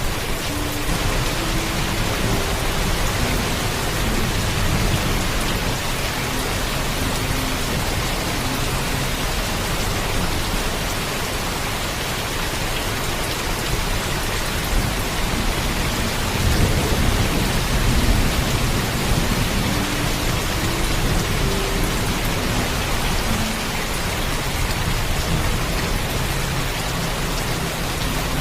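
Heavy rain falling steadily, with a low thunder rumble underneath that swells about two-thirds of the way through.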